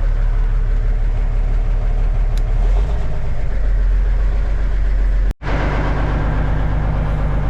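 Cummins diesel engine of a 1989 Kenworth K100E truck running steadily at fast idle, just after a cold start from sitting. The sound breaks off for an instant about five seconds in, then the engine carries on.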